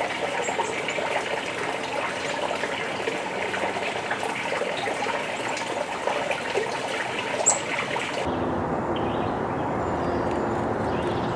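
Steady sound of running water, with a few short, faint, high bird chirps and one clearer chirp about seven and a half seconds in. About eight seconds in the sound cuts to a quieter background with a steady low hum.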